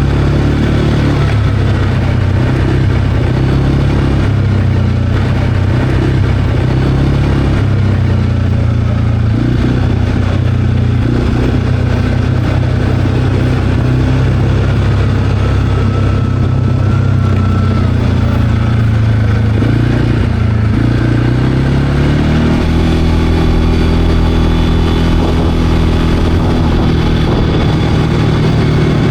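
CFMOTO CForce 520L ATV's single-cylinder engine running under way at a steady pace. About three quarters of the way through, its pitch rises and then holds higher.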